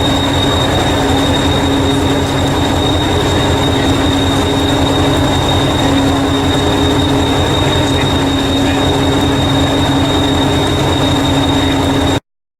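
Miniature railway train running along the track: a continuous low rumble with a steady high whine over it, cutting off abruptly near the end.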